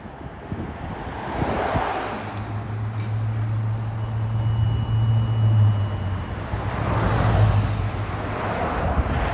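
Motor vehicles passing on a road, each swelling and fading, with a steady low engine hum in between and wind buffeting the microphone.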